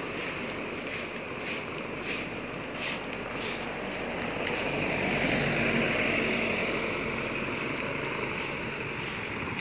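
Outdoor street ambience: a steady rush of passing traffic, with a motor vehicle going by and growing louder around the middle.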